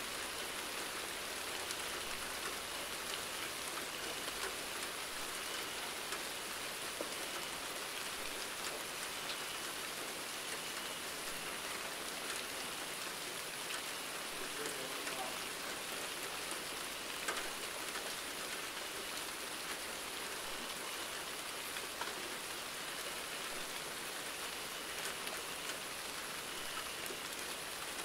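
Steady rainfall, a constant hiss of many drops with scattered individual drop ticks, one slightly louder about two-thirds of the way through.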